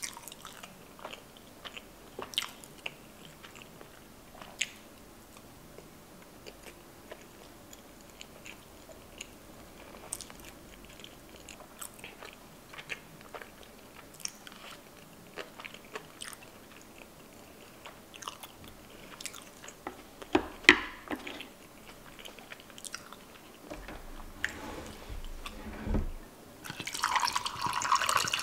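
Close-miked chewing of a mouthful of sushi, with soft wet mouth clicks scattered throughout. Near the end comes a dull knock, then a drink is poured from a plastic pitcher into a glass of ice.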